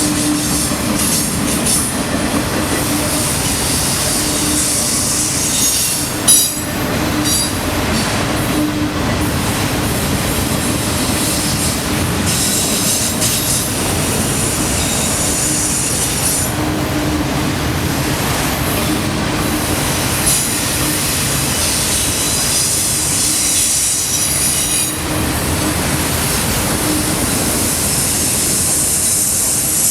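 Freight train cars rolling through a grade crossing, wheels clattering, with high-pitched squeals coming and going. There is one sharp bang about six seconds in.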